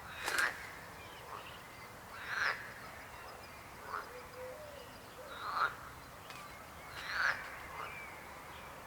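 Frogs croaking, with a call about every one and a half seconds, each rising in pitch.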